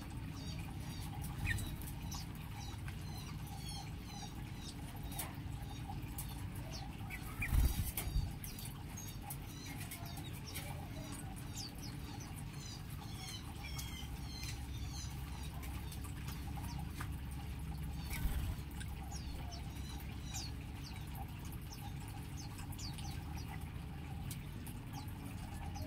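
A flock of small aviary birds chirping with many short, high calls, over a steady low hum, with a few louder thumps among them.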